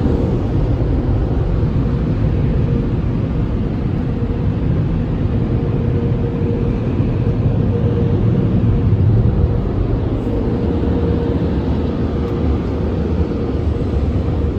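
Automatic car wash tunnel machinery running, a loud steady rushing noise with a steady hum.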